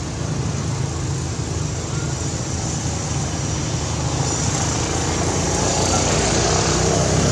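Steady outdoor background noise, a low rumble with a hiss over it, with faint voices mixed in.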